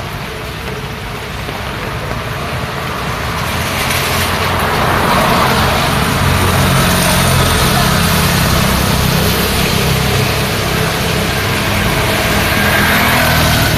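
Road traffic in the rain: vehicle engines and tyres grow louder a few seconds in and then hold, over a steady hiss of rain.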